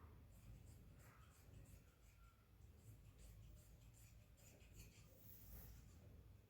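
Near silence, with faint rustling and light scratchy ticks scattered throughout over a low room hum.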